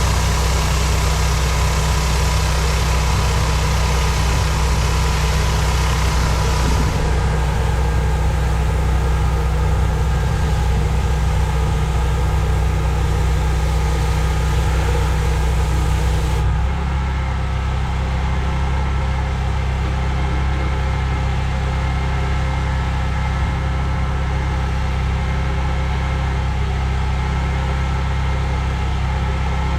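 Petrol-engine pressure washer running steadily, with water spray hissing over it. About seven seconds in the hiss softens. Around sixteen seconds in the engine note changes and the high hiss drops away.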